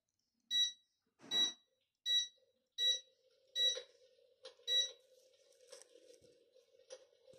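Electrolux Infinity 1600 electric fireplace's control unit beeping six times, about once every 0.7 s, as its settings are stepped, here the volume of its log-crackling sound effect. After the beeps a faint steady hum with scattered soft clicks remains.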